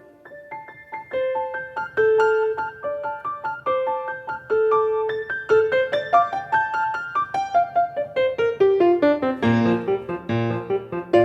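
Solo piano playing a melody of separate notes, starting softly. Near the end a descending line leads into fuller passages with low bass notes added.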